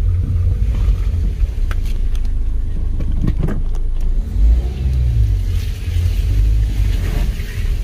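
A vehicle driving slowly, a steady low rumble of engine and tyres with a few light knocks from the road.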